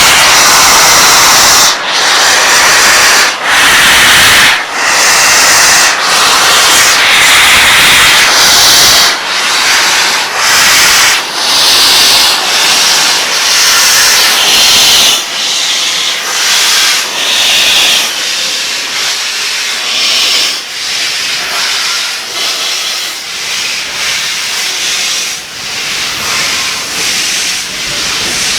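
Steam locomotive and its train making a loud rushing hiss, broken by regular short dips about every one and a half seconds that come closer together and ease off somewhat after about fifteen seconds.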